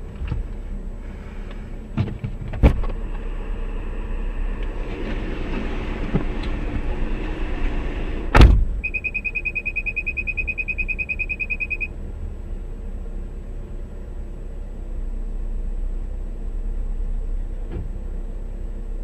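Road and engine noise inside a moving car, a sudden loud impact of a collision about eight seconds in, then a rapid electronic beeping for about three seconds.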